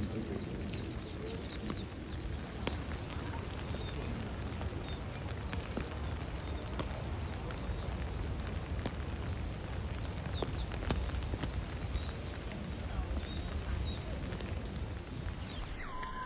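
Japanese white-eyes (mejiro) calling in a flowering cherry tree: many short, high chirps scattered throughout, over a steady low background rumble.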